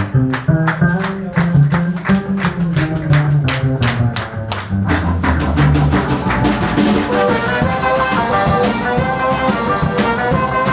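Live swing band playing over a steady drum beat and walking bass; a horn section comes in with held brass chords about halfway through.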